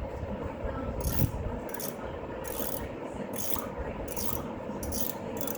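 Hand tool working on engine hardware: a series of short rasping strokes, about one a second.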